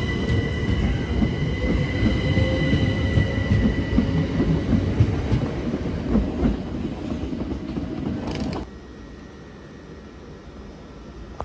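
Train running past on the track: a loud rumble with high whining tones and a slowly rising whine. It cuts off suddenly about eight and a half seconds in, leaving a quieter background.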